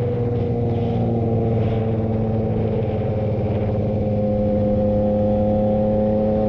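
Motorcycle engine running at steady revs while riding; its pitch eases down a little, then slowly climbs.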